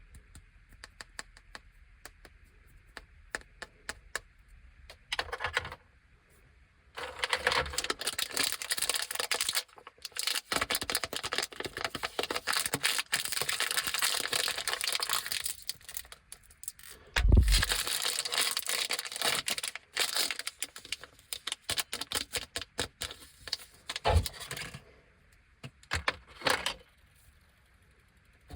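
Plastic lollipop wrappers crinkling and crackling as they are handled and torn open, with light ticks at first and long stretches of dense crackling. One loud thump comes about 17 seconds in.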